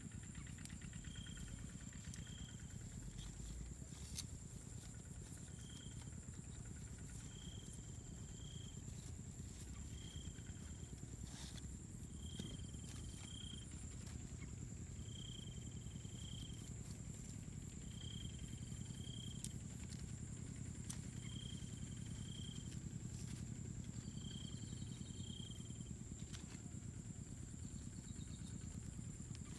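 Jungle ambience: a bird repeats a short two-note call about every two to three seconds over a steady insect-like high drone and a low rumble.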